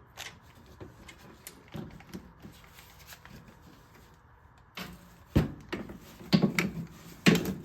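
Metal hand tools clinking and knocking, a socket and extension being worked in around the header bolts. Faint scattered clicks at first, then a run of sharper knocks in the last few seconds.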